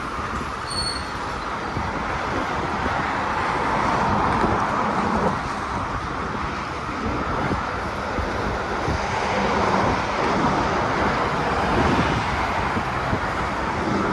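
Steady rolling rumble and roar of a passing train, swelling and easing a little, with no horn.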